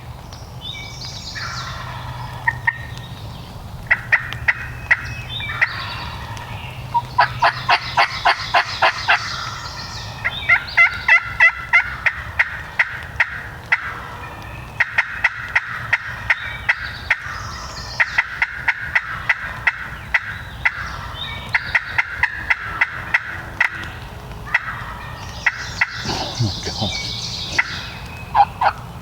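Wild turkey calling close by: repeated gobbles about a second long, between runs of short, quick notes at several per second.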